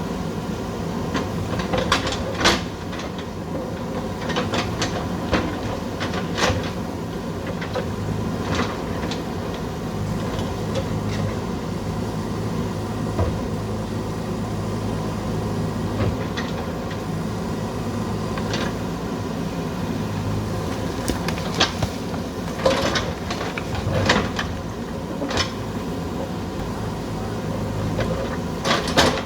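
JCB backhoe loader's diesel engine running steadily under work, with sharp metallic clanks and knocks from the digging gear: several in the first nine seconds and another cluster in the last eight.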